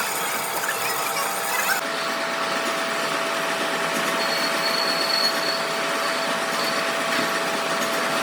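Steady workshop machinery running, with a constant whine throughout and a thin high whine joining about four seconds in.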